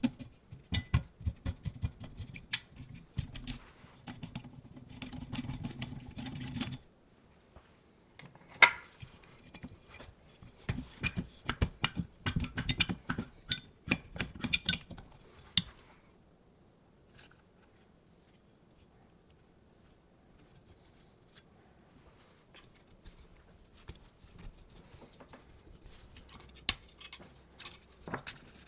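Parts and hand tools being handled at a workbench: irregular clicks, knocks and rattles in two busy stretches, one sharp knock among them, then only a few light scattered clicks.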